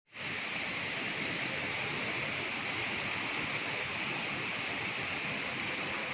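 Heavy rain falling steadily, an even hiss that holds level throughout.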